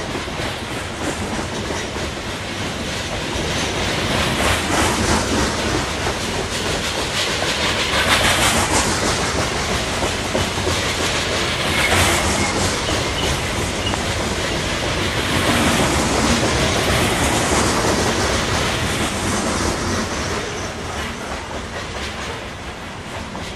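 A loaded coke train's freight cars rolling past, wheels clattering over the rail joints. The steady rolling noise swells and eases several times as groups of wheels pass, then dies down a little near the end.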